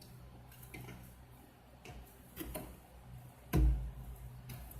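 Light clicks and knocks of a refrigerator's condenser fan blade being fitted back onto its fan motor shaft, with one louder thump about three and a half seconds in, over a faint steady low hum.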